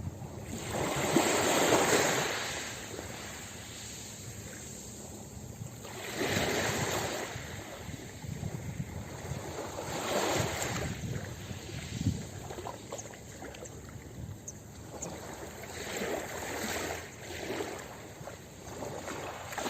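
Ocean waves breaking and washing up a beach: five surges of surf that swell and fade, the loudest about two seconds in.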